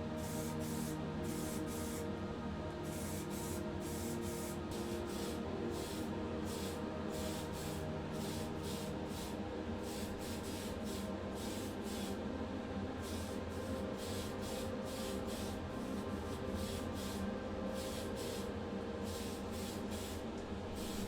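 Spray paint hissing in short, rapid bursts, about two a second, as a small die-cast car body is painted in light coats.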